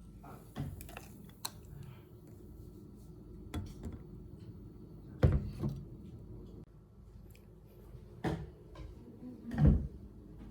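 Household clatter: scattered clicks and knocks over low room noise, with two louder thumps about five seconds and nine and a half seconds in.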